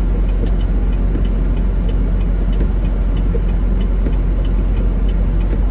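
Steady low drone of a semi-truck heard from inside the cab while under way, engine and road noise together, with faint ticks about twice a second.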